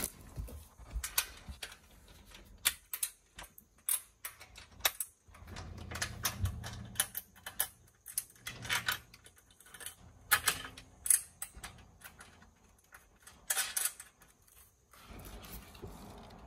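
Irregular sharp clicks and knocks of screws and roof-basket bars being handled and screwed together by hand.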